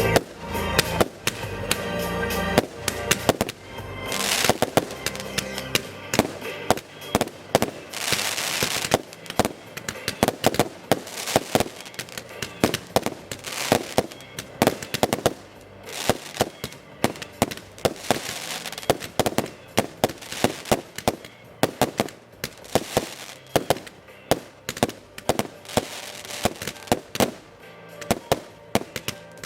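Fireworks display: a dense, rapid barrage of shell bursts and crackling reports, with two longer hissing bursts in the first third. Music heard at the start stops after about two and a half seconds.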